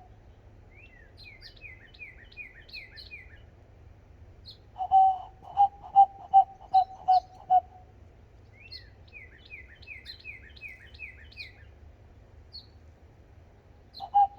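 Bird calls: a run of high, quick falling chirps, then about midway a loud series of about eight evenly spaced lower piping notes, then another run of high falling chirps. The loud piping series starts up again at the very end.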